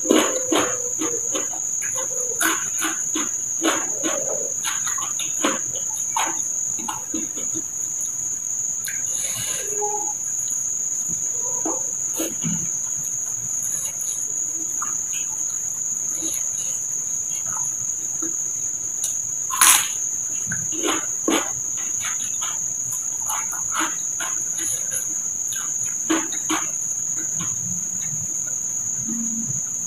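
A steady high insect trill, like crickets, runs under close-up eating sounds: chewing, crunching and mouth smacks as rice and raw cucumber are eaten by hand, busiest in the first few seconds, with one sharper, louder click about two-thirds through.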